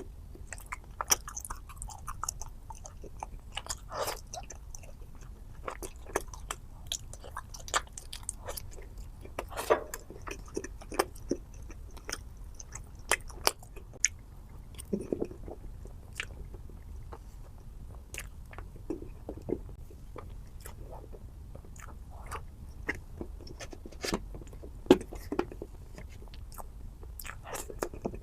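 Close-miked mouth sounds of someone eating chocolate cake: bites and chewing, with frequent sharp crunchy clicks at an uneven pace.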